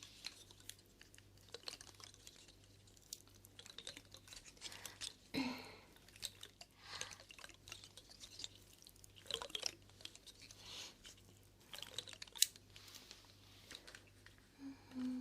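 Close-miked ASMR mouth sounds: irregular wet clicks and smacks, with a few longer wet smacks scattered through.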